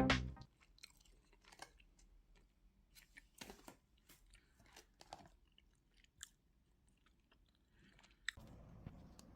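Faint, irregular crunching and clicking of a person chewing food, a few separate crunches spread over several seconds.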